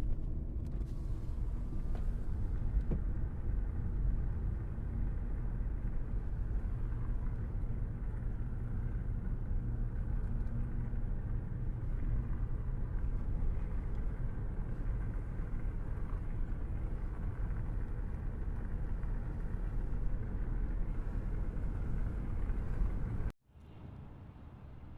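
Steady low rumble of a car driving along a road, engine and tyre noise together. It cuts off abruptly near the end to a much quieter background.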